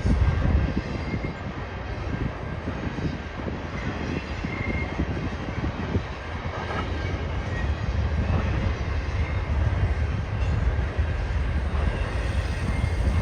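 Freight train cars rolling past: a steady low rumble of wheels on rail with a dense, irregular clicking and clatter, and a faint high wheel squeal now and then.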